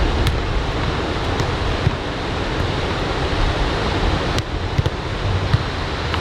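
Ocean surf from a typhoon swell, waves breaking and washing in as a steady roar, with wind rumbling on the microphone.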